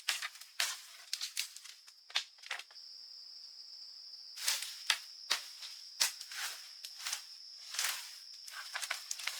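Irregular sharp crackles and rustles over a steady, high-pitched insect drone, the crackles coming thicker after about four seconds.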